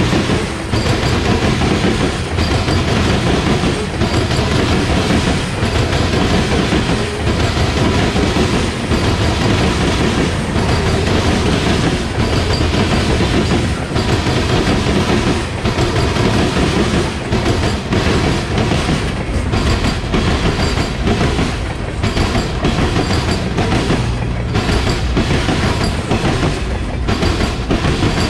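Freight train cars rolling past close by: a steady rumble of steel wheels on rail, broken by repeated sharp clickety-clack as the wheel sets pass over the track joints.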